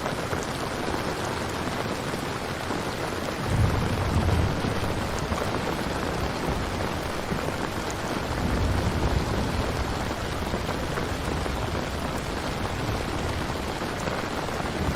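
Steady rain falling, with a low rumble of thunder about three and a half seconds in and another around eight seconds.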